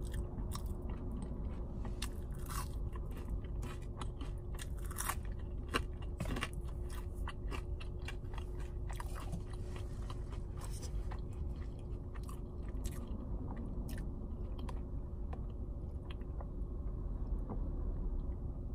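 Close-up chewing and crunching of fried fast food, crinkle-cut fries dipped in sauce among it, with many small sharp mouth clicks throughout. A faint steady hum runs underneath.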